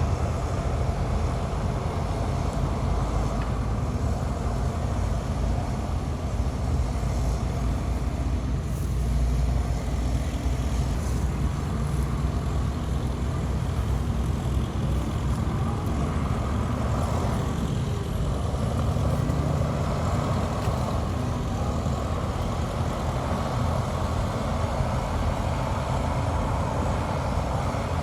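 Diesel engines of a bulldozer and dump trucks running steadily, a continuous low rumble with no sharp knocks or breaks.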